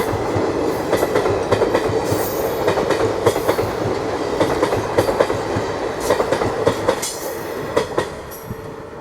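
Express train coaches rolling past, their wheels clattering over rail joints in a dense, irregular run of clicks over a steady rumble, getting quieter near the end.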